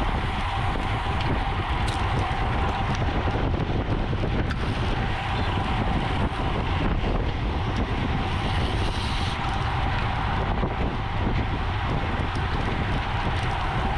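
Steady wind rushing over the microphone of a camera riding on a road bicycle at race speed.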